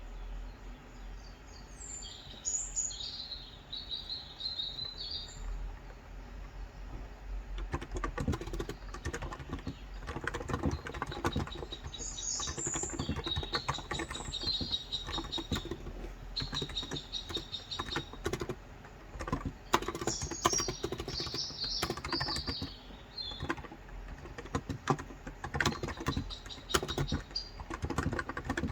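Typing on a Cox Endeavor electro-capacitive 35 g tenkeyless keyboard: a dense run of key clicks that starts about eight seconds in. Birds chirp in several short bursts throughout.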